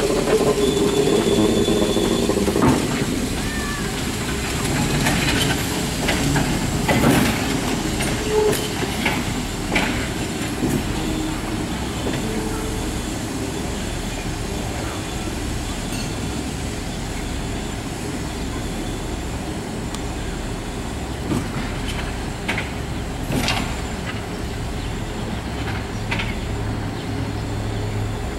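Chicago North Shore and Milwaukee electric interurban train rolling slowly along the track, with a steady rumble and irregular sharp clacks as its wheels cross rail joints.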